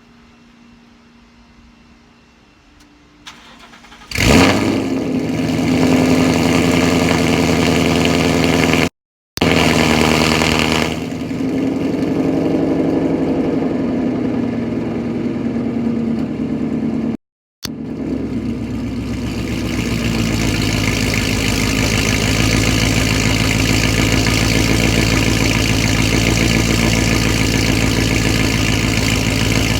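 Car engine breathing through BBK long-tube headers and Corsa Extreme mufflers, cold-started: a click, then the engine catches about four seconds in with a loud flare and settles into a steady, deep-toned fast idle. The sound cuts out briefly twice.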